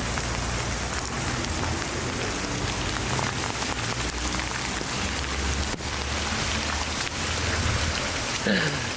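Heavy rain pouring down steadily, a dense even hiss of drops on surfaces.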